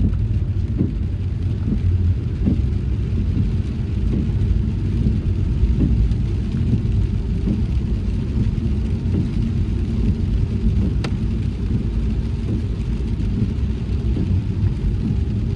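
Car driving along a road: a steady low rumble of engine and tyres, with one sharp click about eleven seconds in.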